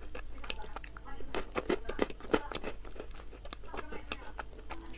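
Close-miked mouth sounds of someone chewing chocolate-coated ball candies: many quick, crisp crunches, the loudest a little after two seconds in.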